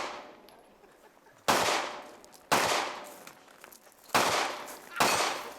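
Pistol-caliber carbine firing four single shots, roughly a second apart at an uneven pace, each sharp crack trailing off in a short echo.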